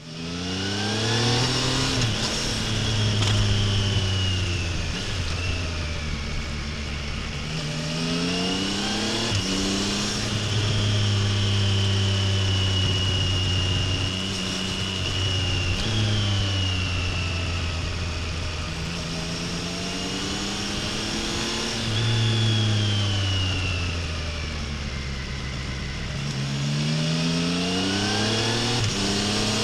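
2025 Triumph Tiger Sport 800's three-cylinder engine and exhaust while riding: the revs climb and drop sharply with each gear change, hold steady at cruise, then fall off as the bike slows, several times over.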